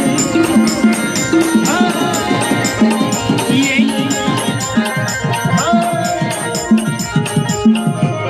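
Band music: drums and percussion keep a steady, fast beat under sustained melody notes with a few sliding notes.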